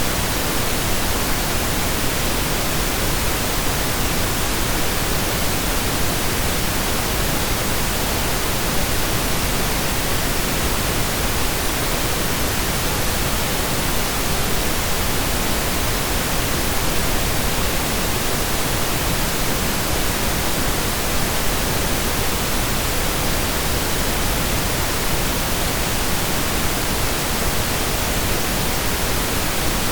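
Steady synthesized pink noise, an even hiss with equal energy per octave, like steady rain or a waterfall heard from indoors.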